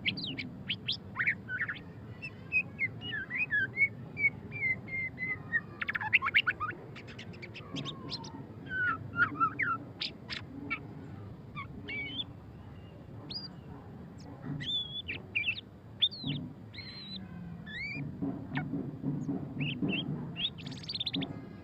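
White-rumped shama singing a varied song of clear whistled notes, slurred glides and rapid chattering clicks, with short pauses between phrases.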